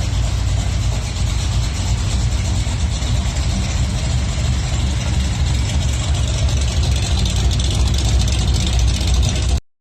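Truck engine idling steadily with a low rumble, cutting off abruptly near the end.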